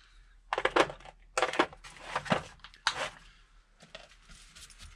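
Hand work on metal parts: four short, rough scraping or crunching bursts in the first three seconds, then a few faint knocks.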